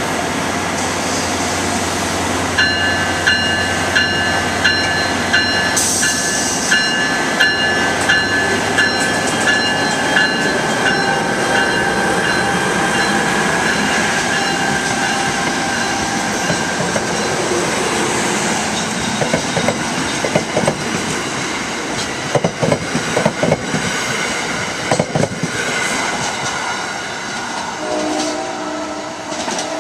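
NJ Transit commuter train passing a grade crossing: a steady low engine hum, then wheels clicking irregularly over the rails as the coaches go by. For several seconds early on, the crossing's warning bell rings about one and a half times a second. A horn chord sounds near the end as the train pulls away.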